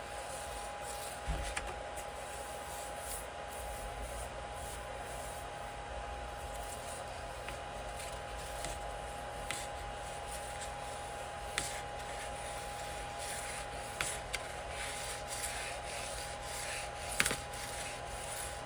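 Rubbing and scraping with a few sharp clicks and taps, the loudest near the end, over a steady high hum.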